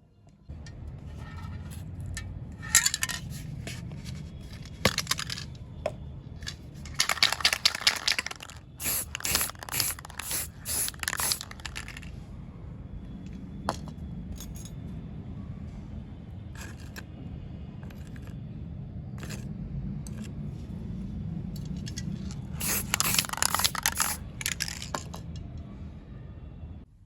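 Small metal parts of a diecast toy car scraping and clinking as they are handled and worked on, in bursts, over a steady low hum.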